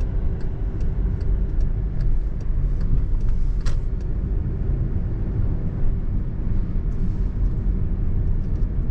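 Car cabin noise while driving: a steady low rumble of engine and road. Light regular ticks come about two or three a second for the first few seconds, and a single sharper click comes just before the middle.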